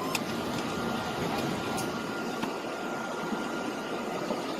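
Heavy rain falling, a steady hiss with a few faint scattered taps.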